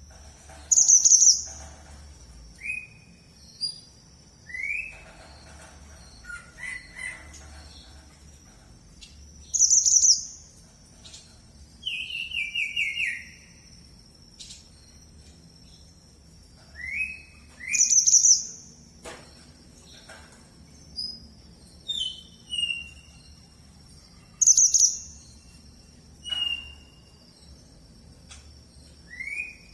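A mantenan merah songbird singing actively: a loud, high call repeated every several seconds. Between the calls come short rising whistles and, once, a quick falling run of notes. A faint low hum sits underneath.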